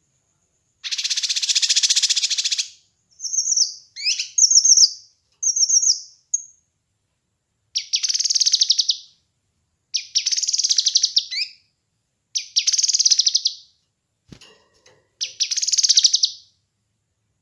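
A kinoi songbird singing: a long buzzy, rattling trill, then a few short sharp whistled notes, then four more buzzy trills of about a second each with short pauses between them.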